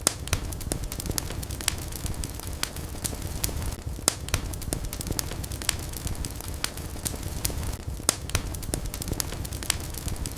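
Wood fire burning in a fireplace: frequent sharp crackles and pops over a steady low rumble of the flames, with louder pops right at the start and about eight seconds in.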